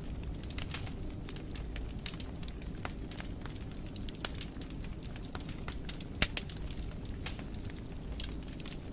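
Fire crackling in a fireplace: irregular small pops and snaps over a low steady rumble, with one louder pop about six seconds in.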